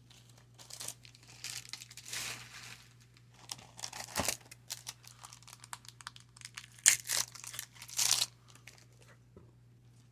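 Baseball card pack wrapper crinkling and tearing as it is opened by hand, in a series of irregular rustles that are loudest about seven and eight seconds in.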